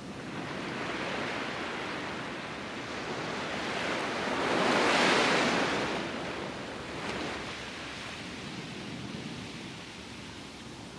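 Surf on a sandy beach: waves washing in, with one wave breaking loudest about five seconds in and its wash fading away afterwards.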